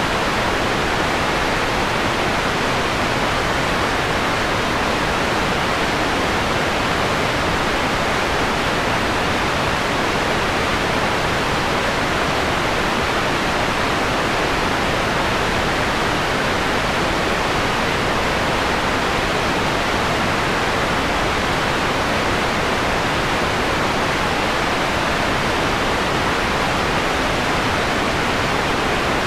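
Steady electronically generated noise, filtered so its top end is softened: an even hiss centred in the middle range that fades off in the highs, a mellower sound than bright white noise. It does not change for the whole stretch.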